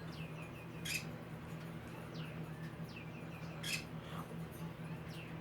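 Small birds chirping faintly: a few short chirps falling in pitch, with a sharper call about a second in and another past the middle, over a steady low room hum.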